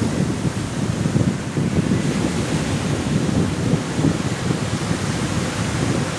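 Sea waves washing on a beach under strong wind, a steady, surging rush of noise that is heaviest in the low range.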